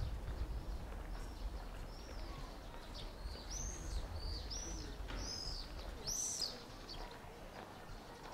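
Small birds chirping: a run of short, high, arched chirps repeated every half second or so, loudest in the middle, over a low rumble that fades near the end.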